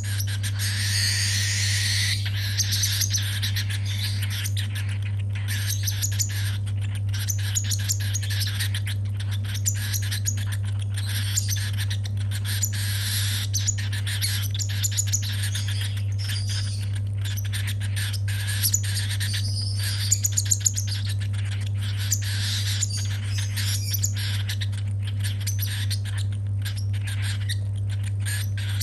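Baby cockatiel's rapid, raspy food-begging calls, going on almost without a break as it is hand-fed. A steady low hum runs underneath.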